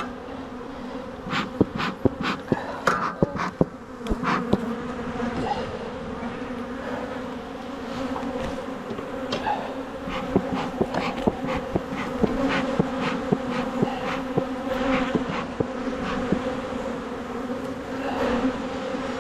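Honeybees buzzing steadily around an open hive, a continuous hum with a second, higher pitch above it. Scattered sharp clicks and taps run over it, thickest in the first few seconds and again through the middle.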